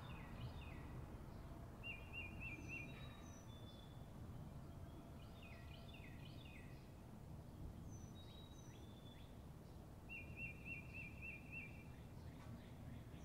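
Faint outdoor ambience of small songbirds calling: clusters of quick falling chirps, and twice a fast trill of five or six notes. A steady low rumble sits beneath.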